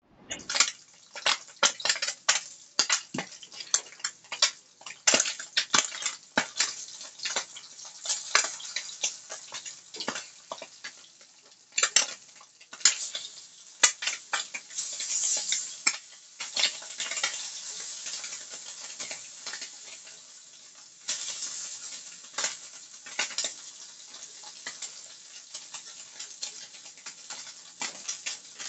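Ham slices frying in a skillet, sizzling steadily with many sharp pops and clicks, as utensils tap against the pan while the slices are turned.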